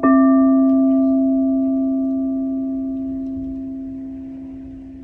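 A singing bowl struck once, then ringing with a slow fade and a slight wavering beat.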